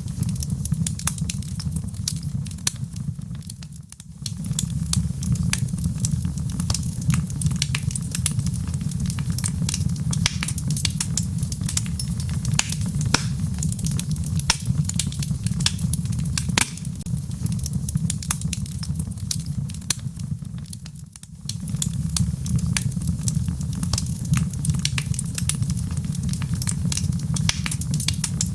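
Logs burning in a fireplace, crackling with many sharp pops over a steady low rumble of the flames. The sound dips briefly twice, about four seconds in and again about two-thirds through.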